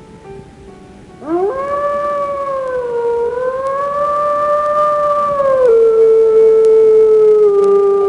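A dog howling: one long howl begins about a second in with a quick rise in pitch, wavers, then steps down a little near six seconds in and is held steady.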